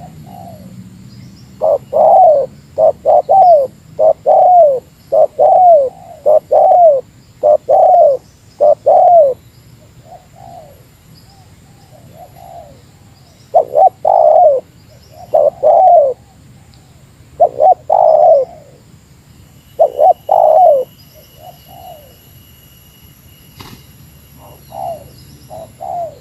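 Spotted dove (tekukur) cooing: runs of loud coo notes come in several bursts, with fainter coos between them. A single sharp click comes near the end.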